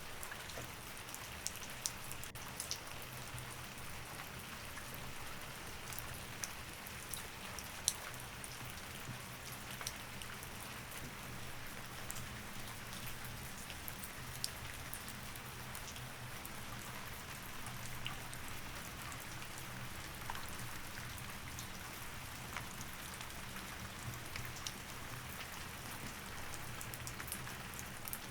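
Steady rain falling, with many separate drops ticking on a hard surface over a soft wash of rainfall, and a faint steady low hum beneath.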